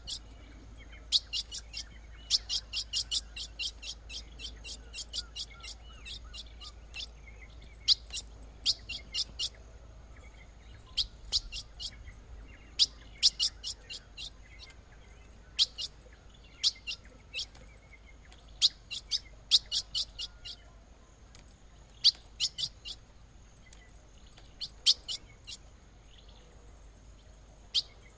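Ultramarine grosbeaks (azulão) giving short, sharp, high-pitched chip calls, some single and some in quick runs of several notes, repeated on and off.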